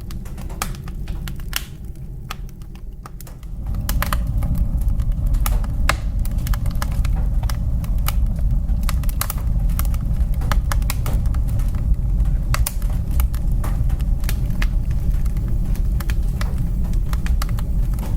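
Wood fire burning in a fireplace, crackling with frequent irregular sharp pops and snaps over a low rumble of flames. The rumble grows louder about three and a half seconds in.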